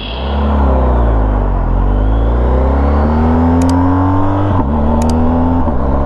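BMW R1250GS motorcycle engine pulling away and accelerating, its note rising and dropping back sharply at two upshifts in the second half.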